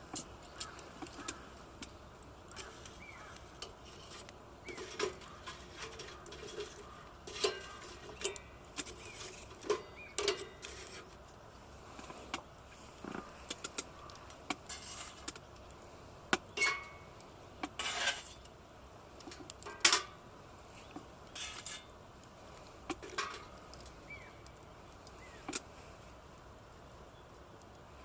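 Irregular clinks and knocks of metal camp cookware and utensils being handled, some with a brief metallic ring, with a few louder clanks in the second half.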